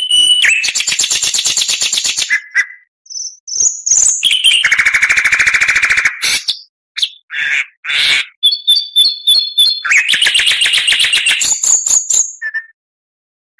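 Oriental magpie-robin (kacer) singing loud, fast buzzy trills, three long ones, broken up by short clear whistled notes and brief pauses.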